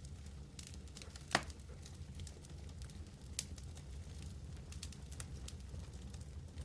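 Wood fire burning in a fireplace, crackling with scattered small pops over a low steady rumble. One sharp, loud pop comes about a second and a half in, and a smaller one about two seconds later.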